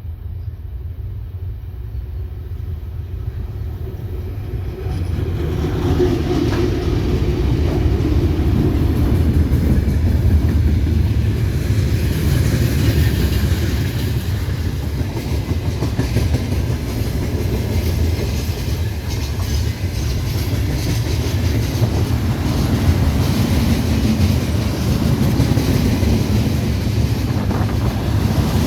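Freight train hauled by a VL11M electric locomotive passing close by, wheels clattering over the rails with a heavy low rumble that grows louder about five seconds in and then holds steady as the wagons roll past.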